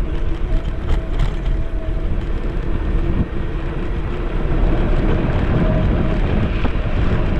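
Wind buffeting the camera microphone and road noise while riding a Caroma P5 electric scooter, with no engine rumble. A faint thin whine comes and goes.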